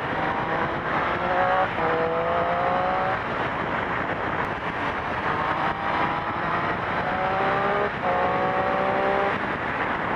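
Triumph Street Triple R inline-three engine through its stock exhaust, accelerating hard twice, with the pitch rising and an upshift partway through each pull. Heavy wind rush on the helmet-mounted microphone runs under it.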